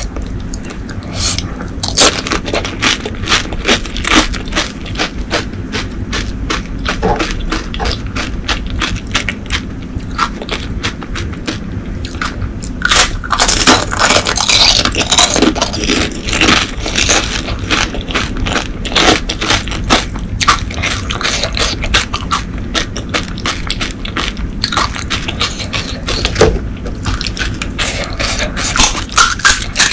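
Close-miked eating of panipuri: crisp hollow puri shells filled with spiced water being bitten and chewed, giving a dense, steady run of crunches and wet mouth clicks that is busiest around the middle.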